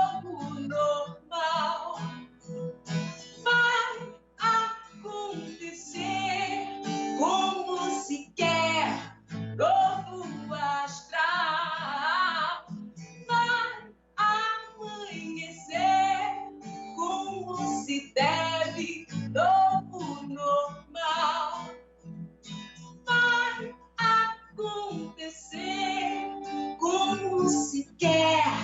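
A woman singing a Portuguese-language song in a jazz-tinged Brazilian popular style, accompanied by acoustic guitar.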